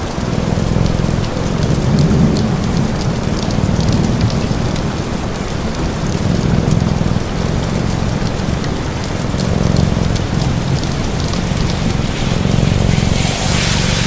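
Steady rain mixed with crackles from a fireplace and a low rumble underneath. A brief swell of brighter, hissing rain comes near the end.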